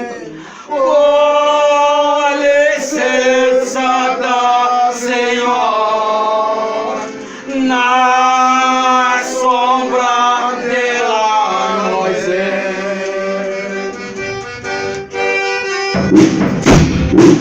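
Folia group's devotional folk music: long held notes of voices and instruments that slide at the ends of phrases, then drum and tambourine strikes come in near the end.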